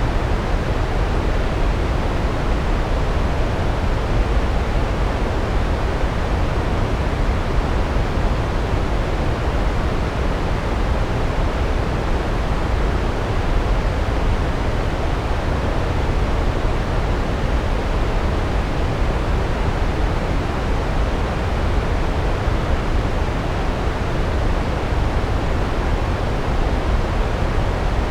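Large waterfall, a steady heavy rush of falling water, deep and even without any changes.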